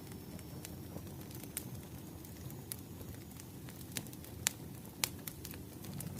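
Firewood burning with irregular sharp pops and snaps over a steady low rumble, the two loudest snaps about two-thirds of the way in.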